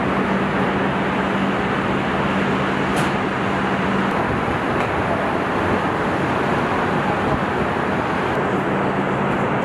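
Steady din of a truck assembly plant: dense machinery noise with a low hum that drops out about four seconds in and comes back near the end, and one sharp click about three seconds in.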